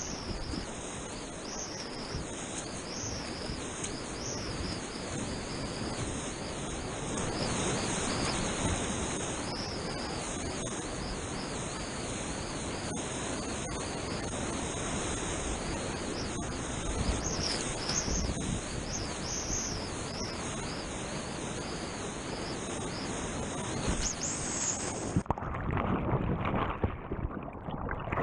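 Steady rushing noise of water around a moving kayak, with wind on the microphone. About 25 seconds in, the high hiss stops and uneven splashing and gurgling of water takes over.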